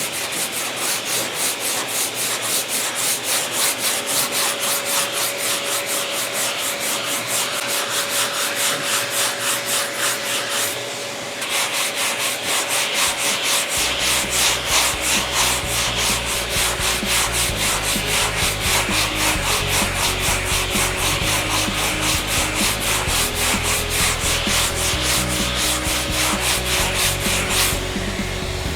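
Hand block sanding on a car body panel: sandpaper on a sanding block rasping in quick, even back-and-forth strokes, with a brief pause about eleven seconds in.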